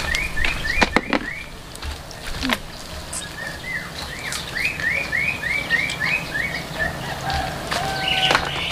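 A bird calling a fast series of short, rising chirps, twice. A few sharp clicks fall between the two runs.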